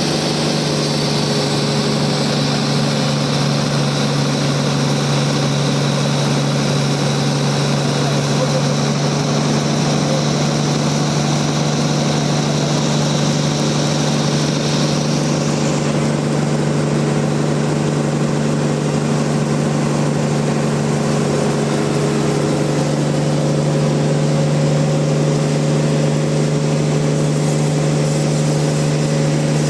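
Band sawmill running steadily with a constant low hum. A higher-pitched whine over it stops about halfway through.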